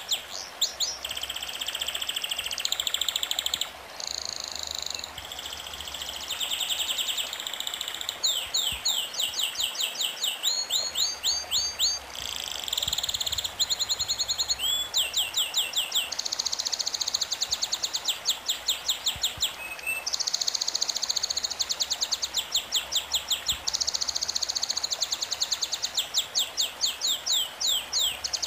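Birdsong: rapid runs of high, quick chirps in short repeated phrases that switch abruptly from one pattern to the next, over a steady background hiss.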